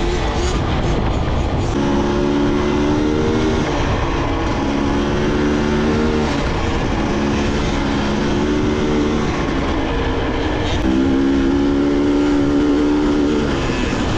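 Two-stroke dirt bike engine running under way, holding steady revs that step up and down every couple of seconds, over a constant rush of wind noise.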